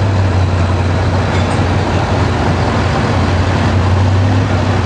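Pulling truck's engine running loud and steady, easing off briefly about a second and a half in before coming back.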